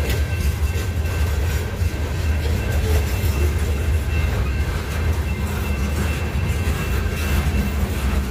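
Freight train rolling past close by: a steady low rumble of the cars with irregular clicking of wheels over the rail joints.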